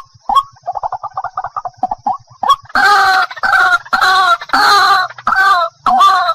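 White-breasted waterhen calling: a couple of short notes, then a quick stuttering run of notes about a second in, then loud harsh repeated calls about two a second from a little before halfway.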